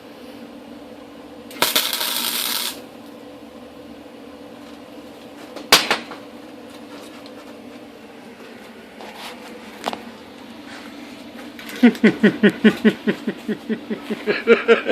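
A welding arc crackles in one short burst of about a second as a tack weld goes onto the expansion chamber. A sharp metal knock follows a few seconds later. Near the end comes a quick run of pulses, about five a second.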